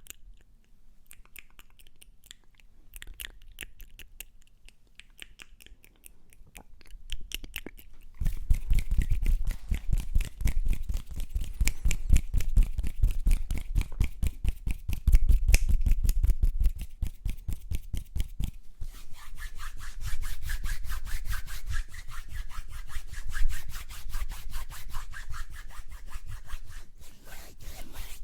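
Close-miked ASMR mouth and hand sounds. The first several seconds hold sparse soft clicks. About eight seconds in, a fast, steady run of rubbing and scratching strokes begins, and around nineteen seconds in it turns lighter and brighter.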